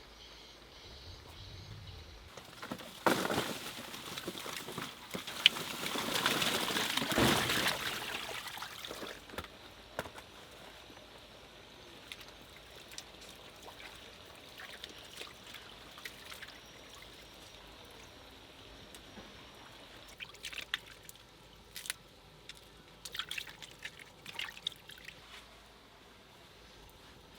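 Water pouring for about six seconds, starting a few seconds in, followed later by a few light clicks and knocks.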